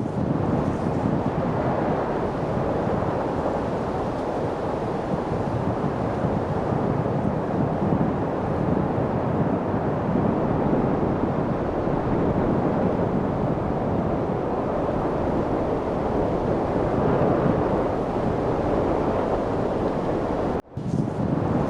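Steady light wind noise: an even, low rushing with no gusts, briefly cutting out for a split second about a second before the end.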